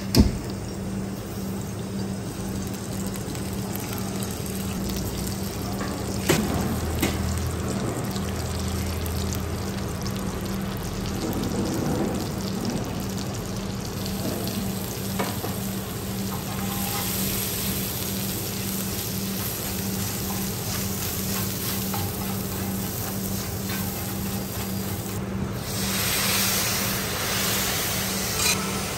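Oil and chopped vegetables sizzling on a large flat iron griddle (tawa), with scattered taps and scrapes of metal utensils. Near the end the hissing grows louder as the egg mixture steams on the hot griddle.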